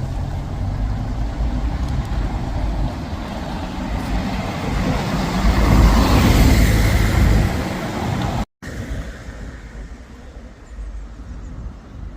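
Road vehicle passing close by: an engine rumble with tyre and road noise builds to its loudest about six seconds in, then fades. The sound breaks off for an instant about eight and a half seconds in, and quieter traffic noise follows.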